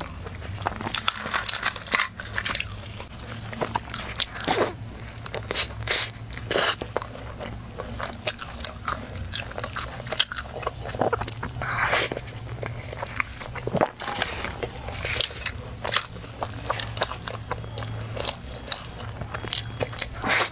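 Close-miked biting and chewing of a cream-filled pastry: irregular crunches, wet mouth clicks and smacks, over a steady low hum.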